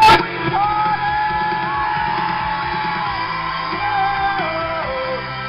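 Live rock music from a stage with a singer holding long, sliding notes, and yells over it. A sharp bang right at the start is the loudest sound.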